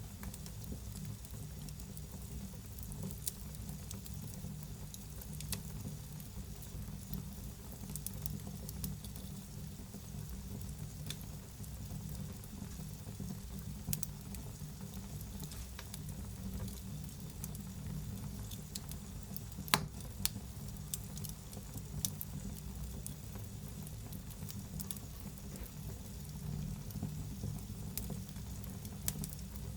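Wood fire burning in a fireplace: a steady low rumble with frequent sharp crackles and pops and a light hiss, one pop standing out about two-thirds of the way through.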